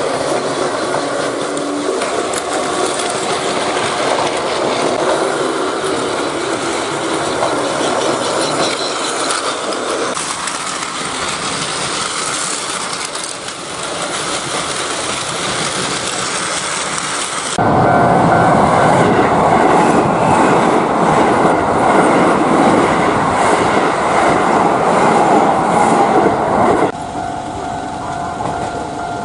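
Trains running along the track with rail clatter, in several cut-together stretches: the sound changes abruptly about a third of the way in, gets louder and fuller just past halfway, and drops back near the end.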